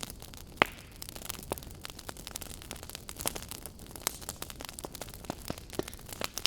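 Wood fire burning in a fireplace, crackling with irregular sharp pops and snaps, the loudest about half a second in.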